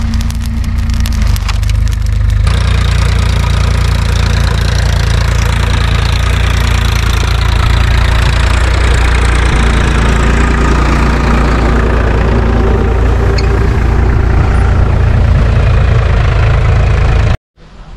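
Tractor engine running steadily and loudly, with a change in its sound about two seconds in, then cutting off suddenly near the end.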